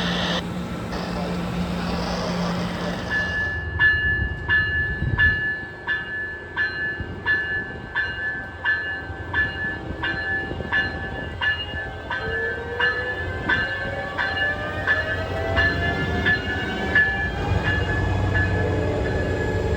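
Railroad grade-crossing warning bell starting about three seconds in and ringing steadily at a little under two strikes a second, as a train approaches. From midway a slowly rising tone joins the ringing; a steady hiss and hum come before the bell.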